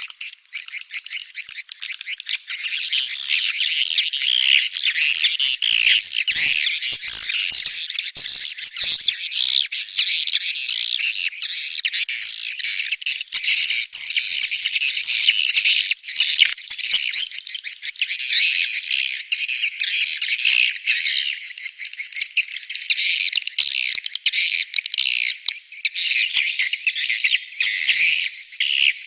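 Swiftlets chattering in a dense, unbroken chorus of rapid high chirps and twitters. It is a swiftlet-farm lure recording of breeding-season calls, played to draw swiftlets into a nesting house.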